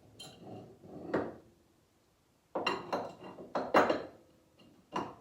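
Irregular knocks and metallic clinks of metal and wood being handled, as a clamp and board are shifted around on a miter saw. A busier clatter comes about two and a half seconds in, and a last knock near the end.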